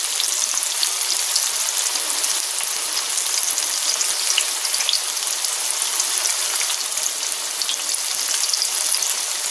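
Cornmeal-breaded green tomato slices frying in about half an inch of hot oil in a cast iron skillet: a steady sizzle dotted with small crackles.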